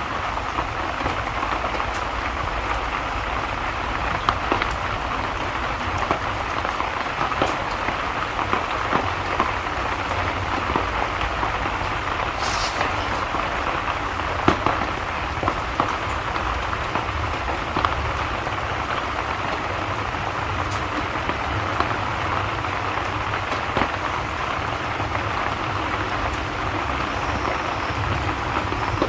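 Steady rain falling, an even wash of noise with scattered sharp ticks of individual drops and a low rumble underneath.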